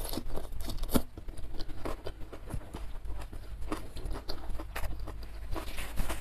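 Close-miked chewing of a mouthful of fresh lettuce leaf with chili sambal: irregular crisp crunches and wet mouth clicks.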